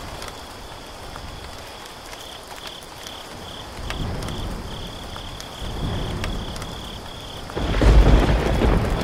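Rain falling steadily with rolls of thunder: low rumbles swell about four and six seconds in, and the loudest, longest one builds near the end.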